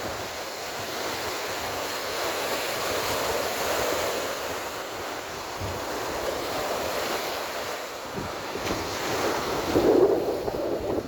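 Sea surf washing on a sandy beach, in slow swells, with sea-breeze wind noise on the microphone that is loudest near the end.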